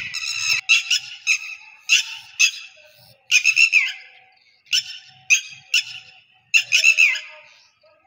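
A bird calling repeatedly: short high-pitched notes, often two or three together in quick succession, with gaps of up to a second between the groups.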